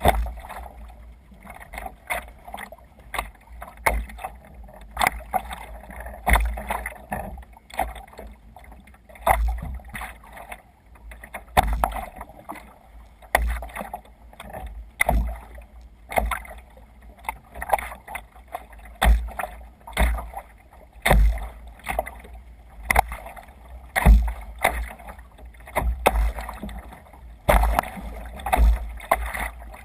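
Water splashing and slapping around a sea kayak under way in waves, in irregular splashes about once a second, each with a low thump.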